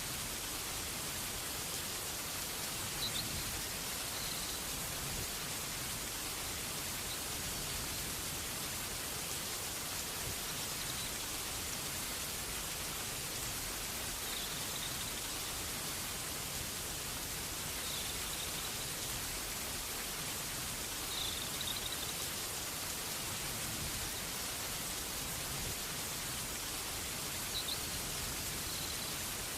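Steady rain falling, an even hiss without pause. A few faint, short high chirps sound now and then over it.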